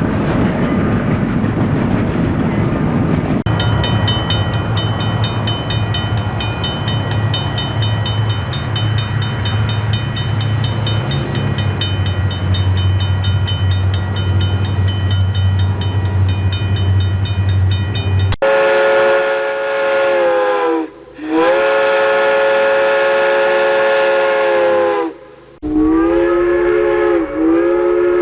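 A train rumbling along, joined after a few seconds by a fast, even ticking. It then cuts suddenly to a locomotive horn sounding a chord in three long blasts, the last one dipping in pitch.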